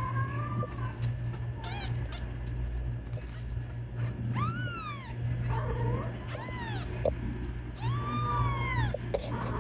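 Kittens meowing, about six high calls that rise and fall in pitch, the longest near the end: kittens crying for their mother cat. A steady low hum runs underneath.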